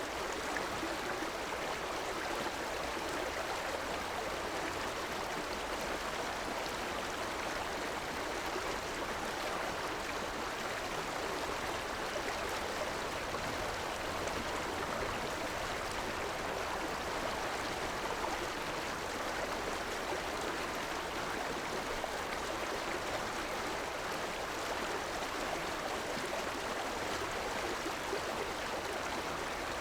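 River water flowing over rocks, a steady rushing and babbling with no breaks or changes.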